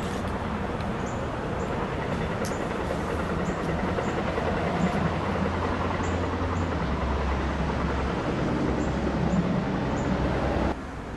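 Amtrak Northeast Regional passenger train running past the track, with a steady rumble and scattered light clicks, until the sound cuts off sharply near the end.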